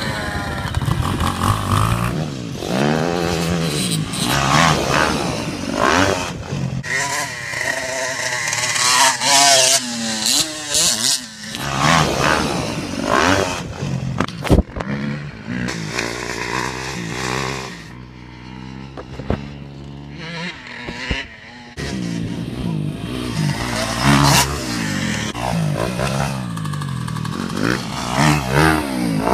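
Dirt bike engines revving, the pitch climbing and dropping again and again as the bikes accelerate and shift, in a string of clips that change abruptly, with a quieter stretch past the middle.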